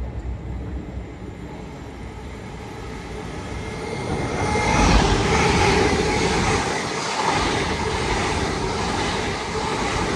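LNER Azuma Class 801 electric train passing through the station at speed. The rush of wheels and air swells about four seconds in and stays loud.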